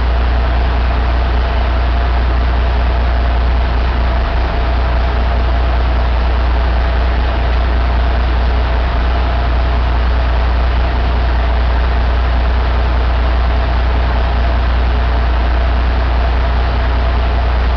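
Caterpillar 3406B inline-six diesel engine idling steadily, with a strong low drone.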